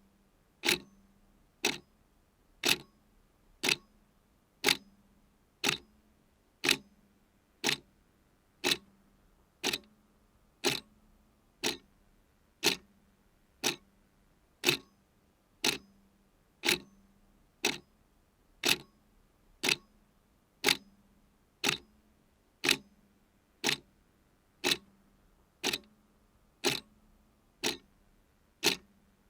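Clock ticking steadily at about one tick a second, each tick a sharp click.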